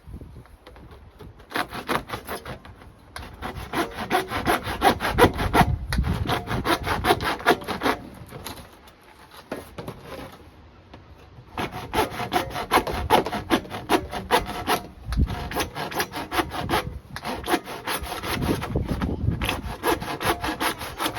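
Hand saw cutting in steady back-and-forth strokes, in two long spells with a pause of a few seconds between them.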